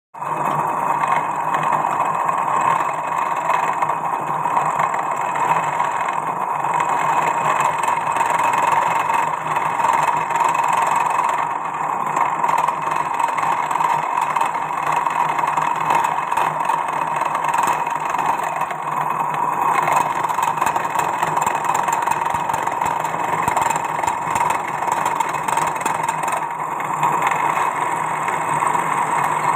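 CNC milling machine running steadily while cutting a mould, a continuous machine hum with a constant low tone and a steady cutting noise.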